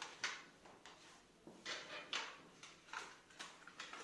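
Paintbrush working paint onto paper: about eight short, scratchy brush strokes and dabs at uneven spacing.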